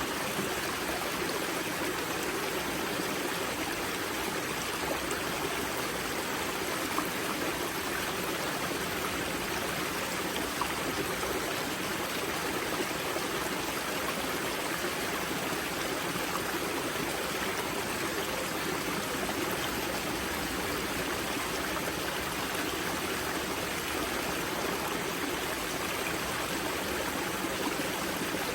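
Water of the Grza river rushing and gurgling steadily at its spring, an even, unbroken sound.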